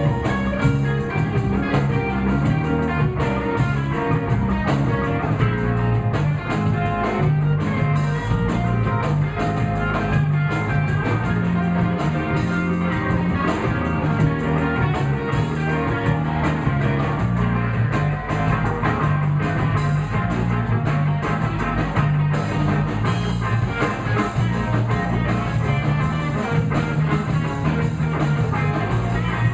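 Live blues band playing an instrumental passage, with electric guitar, bass and drum kit.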